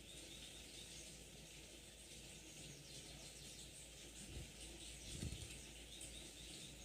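Near silence between bursts of birdsong: faint hiss with a couple of soft low thumps about four and five seconds in.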